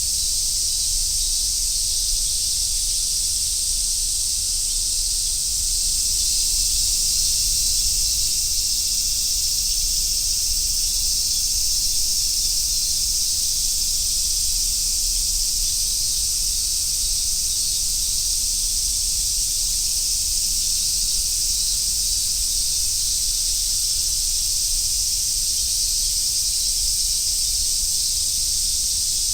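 A dense chorus of cicadas singing in summer woodland, a high-pitched, unbroken drone that stays steady throughout.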